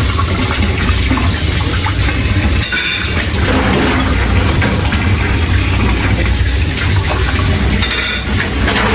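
Commercial conveyor dishwasher running: a steady low hum with the hiss of spraying water.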